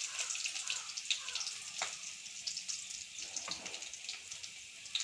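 Prawn masala sizzling and crackling in oil on a tawa, a steady fine spitting with a few sharper pops.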